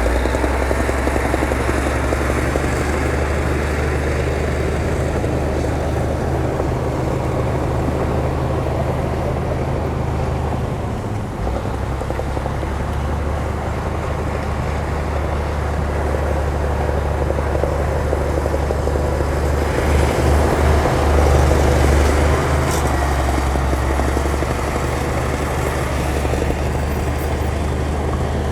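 Heavy diesel engine of earthmoving equipment running steadily under work, with a deep drone and a mechanical clatter above it; it grows louder for a couple of seconds about two-thirds of the way through.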